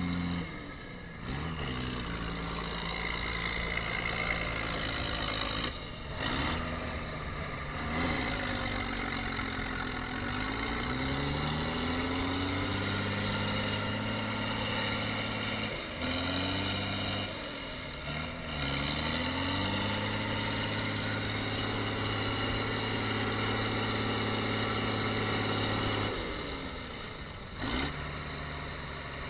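Tractor engine revving up and down again and again, with a longer stretch held at steady high revs in the second half.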